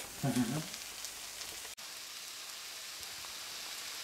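Wild mushrooms and greens sizzling in a hot wok: a steady frying hiss.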